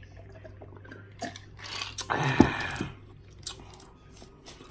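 Close-miked eating sounds: chewing with small wet clicks, and one louder, noisy wet mouth sound lasting about a second, about two seconds in.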